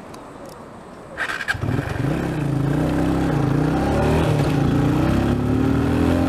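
A few clicks, then a motorcycle engine comes in loud about a second and a half in and runs on, its pitch rising as it revs and pulls away.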